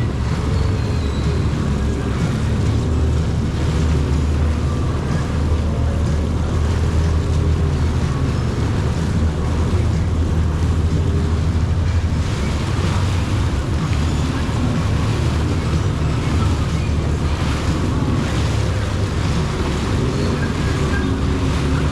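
Jet ski engine running steadily under way, with water rushing past the hull and wind buffeting the microphone.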